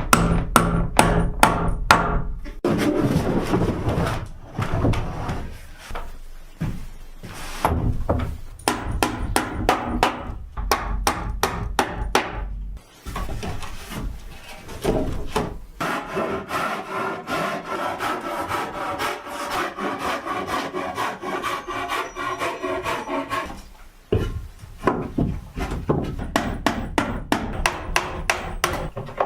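Timber being worked with hand tools: runs of rapid knocks on wood, and in the middle a longer spell of steady, rhythmic rubbing like sawing or rasping.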